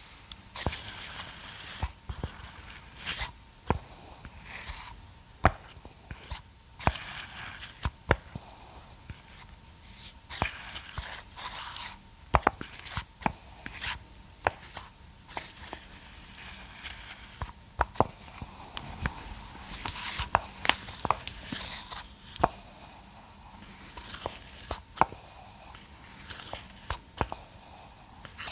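Irregular sharp plastic clicks and taps from handling a massage roller and massage ball, with soft rustling between them.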